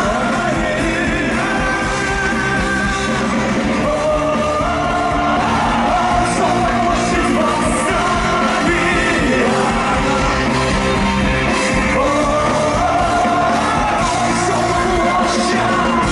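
A rock band playing live, with singing over the band.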